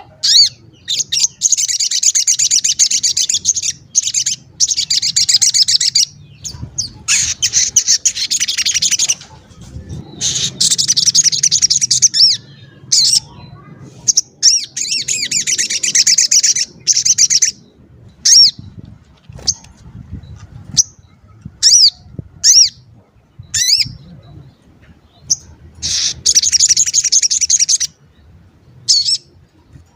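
A sogon songbird calling in bursts of rapid, high, rippling trills of one to three seconds each, broken by short sharp chirps and brief pauses. It is a calling, excited bird of the kind played as a lure to make other sogon birds answer.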